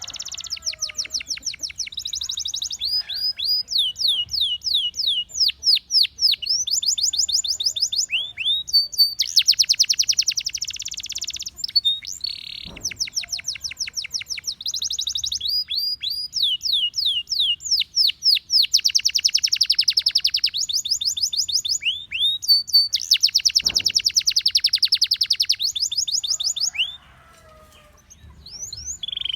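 Gloster canary singing a long, loud song of fast trills and rolls: runs of quick, repeated falling notes alternating with dense, buzzy rolls, with a break of about two seconds near the end.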